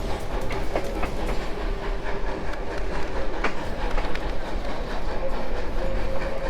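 Heritage railway passenger train rolling along the track: a steady rumble of wheels on rails, with clickety-clack and scattered sharp clicks and rattles.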